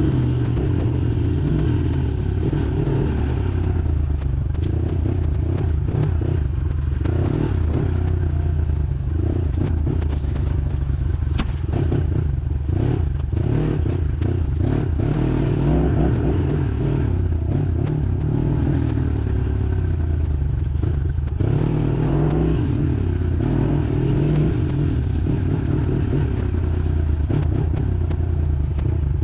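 Small dirt bike engine running steadily, with scattered clicks and clatter over it.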